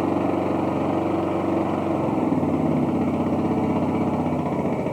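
Small engine of a riding lawn tractor running steadily, with a fast even putter.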